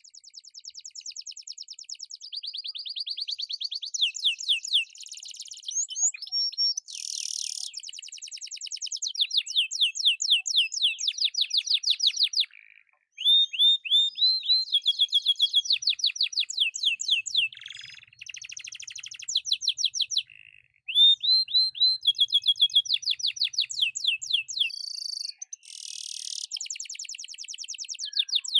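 Domestic canary singing a long, vigorous song of fast trills and repeated rolling phrases, breaking off briefly about twelve and twenty seconds in.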